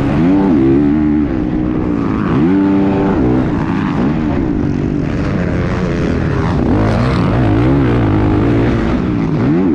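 Motocross dirt bike engines revving, the pitch climbing and dropping again and again as the riders work the throttle and shift, with more than one bike heard at once.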